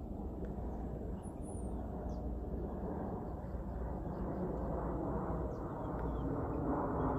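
Faint small-bird chirps over a steady low rumble that grows louder toward the end.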